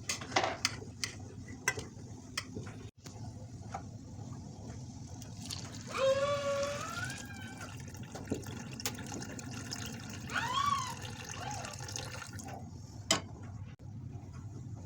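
Water running from a kitchen tap into a sink or vessel, with sharp clinks in the first couple of seconds and two short pitched sounds, one rising about six seconds in and another about ten seconds in.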